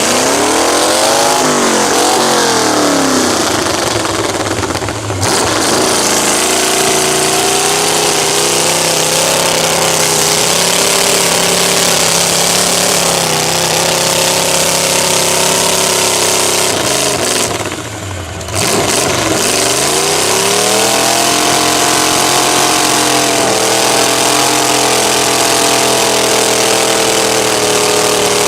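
Mud truck engine revving hard and held at high revs. The pitch dips and climbs in the first few seconds, drops off briefly about eighteen seconds in, then climbs back and holds high.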